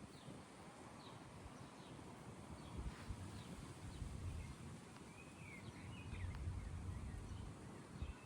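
Faint outdoor ambience: a low uneven rumble with a few short bird chirps about five to six seconds in.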